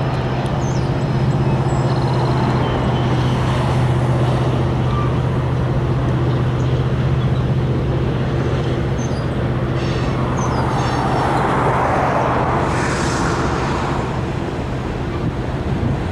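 Long freight train rolling steadily across a stone-arch bridge, heard from a distance: a continuous rumble of the cars with a low steady drone.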